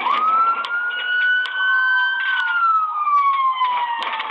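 Police car siren on wail: a quick rise in pitch at the start, a slow climb, then a long slow fall, with a few short clicks over it.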